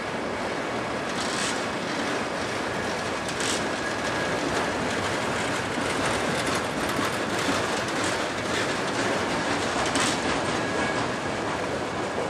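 Loaded autorack freight cars rolling past at close range: a steady noise of steel wheels on rail, with a few sharp clacks, about three.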